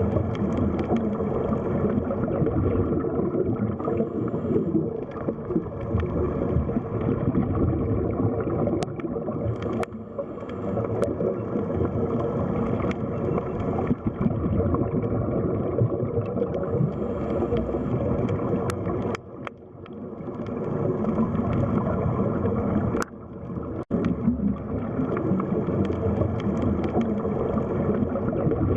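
Underwater sea ambience: a steady low rumble with bubbling water and a few faint clicks. It dips briefly twice past the middle.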